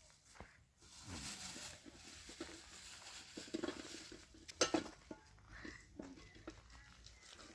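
Rustling and light clattering of objects being handled, with one sharp knock a little past halfway.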